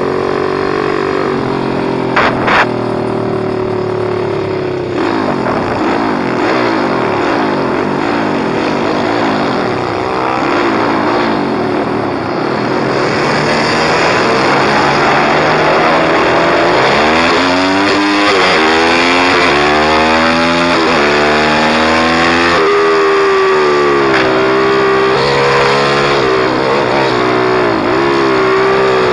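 Pit bike's small single-cylinder engine revving hard, its pitch rising and falling over and over as the throttle opens and closes through gear changes. There are two brief knocks about two seconds in.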